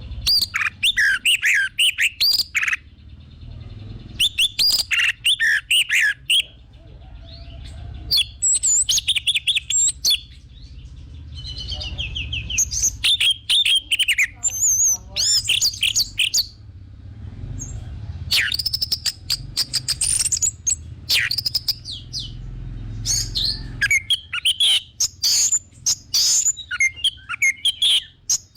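Orange-headed thrush singing loud, varied whistled phrases of a couple of seconds each, broken by short pauses. A low steady hum runs underneath.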